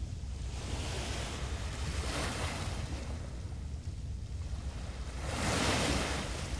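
Small waves breaking and washing up a beach: one swell about a second in and a louder one near the end. A steady low wind rumble on the microphone underneath.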